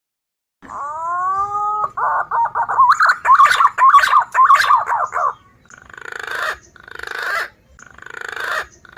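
Recorded lure call of wild green pigeons (punai): a rising whistled note, then a fast warbling run of notes, then four harsh buzzy phrases.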